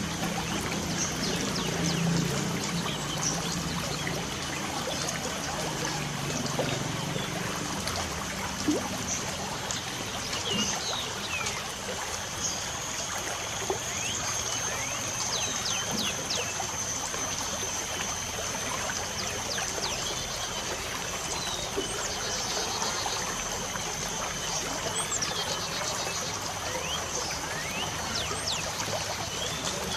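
Light rain falling and trickling as a steady even wash, with birds chirping: short high calls scattered throughout, and a steady high-pitched note held above them.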